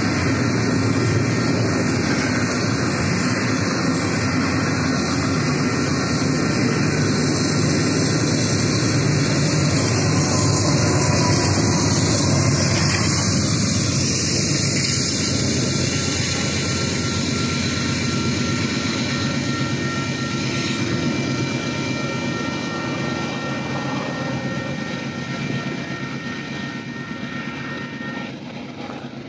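Tail end of a double-stack intermodal freight train rumbling past a grade crossing, the noise fading through the second half. The crossing's electronic bells (WCH Type 2 and General Signals Type 3) ring steadily over it and stop near the end as the gates start to rise.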